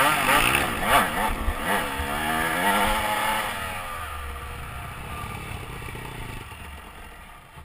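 Motorcycle engine revving up and down in pitch as it pulls away, then fading steadily into the distance.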